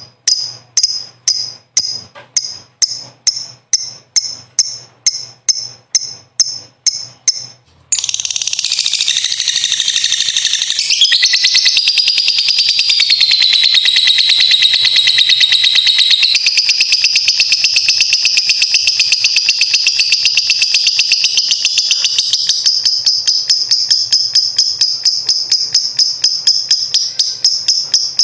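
Lovebird giving sharp high chirps about twice a second. About eight seconds in it breaks into its long, unbroken rapid chattering trill (ngekek panjang), which shifts pitch a few times and carries on to the end.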